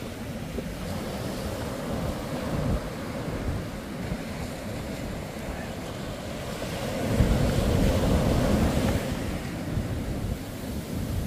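Surf breaking on a beach with wind buffeting the microphone, a louder wave surging through about seven seconds in.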